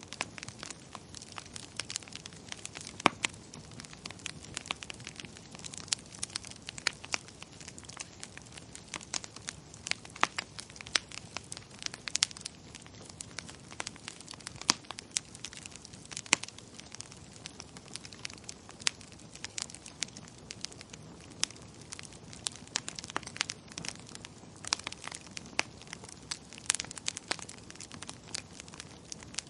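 Wood fire crackling in a fireplace: irregular sharp snaps and pops, a few louder than the rest, over a steady low hiss of burning.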